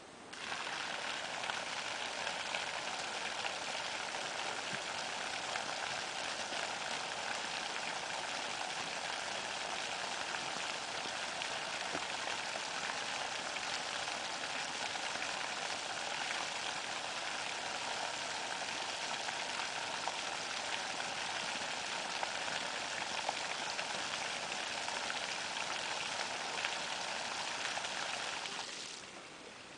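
Sump pump run: water rushing and splashing out through an inch-and-a-half PVC discharge pipe in a steady hiss that starts suddenly and fades out after about 28 seconds.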